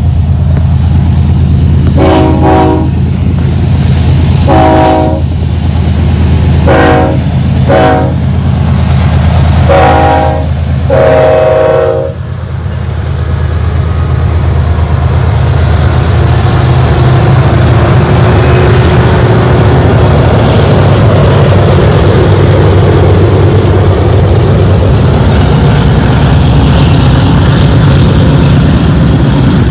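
BNSF diesel locomotives heading a double-stack container train: a steady low engine drone under a series of about six horn blasts, long and short, the last ending about twelve seconds in. The locomotives then pass, and the stack cars roll by with a steady broad rumble of wheels on rail.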